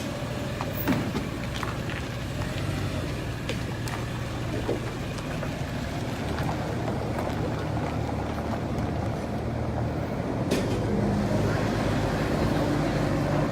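Toyota Land Cruiser's petrol V6 engine running steadily with a low hum and a few light clicks. The sound gets a little louder about ten and a half seconds in.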